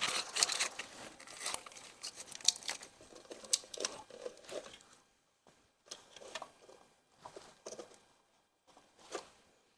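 Clicks, light knocks and rustling as a part is worked and handled on an engine during teardown, busy in the first half and dying away to a few faint taps.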